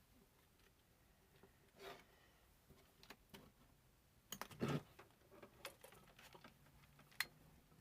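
Near silence with scattered faint clicks and taps, a cluster of sharper clicks about halfway through and one sharp click near the end.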